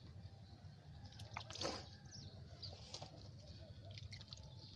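Faint taps, drips and small splashes of water as chickens and ducks drink from a water dish, with one louder splash about a second and a half in.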